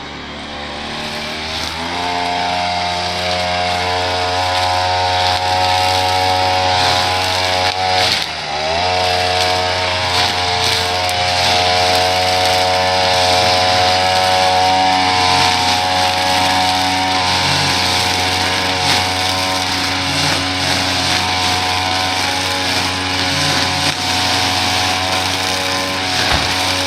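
Small gas engine of a powered lawn tool speeding up over the first couple of seconds and then running steadily at high speed. Its speed dips briefly about eight seconds in and recovers.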